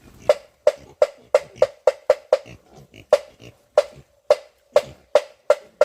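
Repeated sharp wooden knocks, about fourteen at an uneven two to three a second, each with a short hollow ring.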